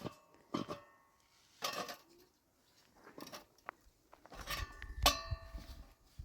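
Light metal clinking and clanking, a few separate strikes with short ringing tones, the busiest and loudest cluster near the end.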